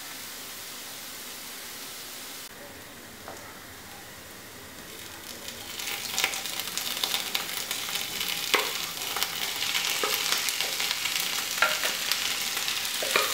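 Beef fry masala sizzling in a nonstick pan, with cooked beef pieces being added and stirred in with a wooden spatula. The sizzle grows louder about five seconds in, broken by a few knocks and scrapes of the spatula against the pan.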